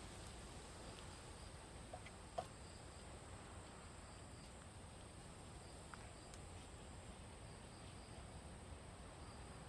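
Near silence: a faint, steady, high insect trill, with a few small clicks, the loudest about two and a half seconds in.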